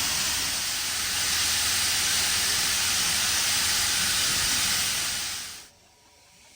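Steam locomotive 3526 letting off a loud, steady hiss of escaping steam, which stops abruptly about five and a half seconds in.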